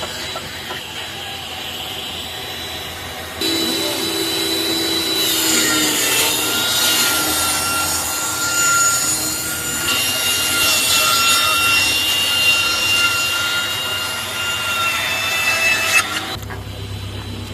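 Power tool cutting into wood: a continuous noisy whine whose pitch shifts a few times as it bites, stopping abruptly near the end.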